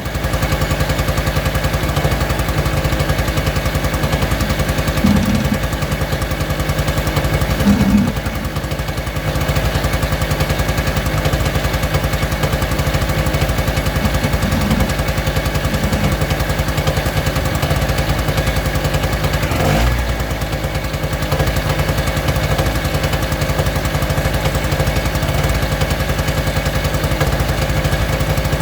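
Small two-stroke engine running steadily at a constant speed, with a few short knocks or clatters over it.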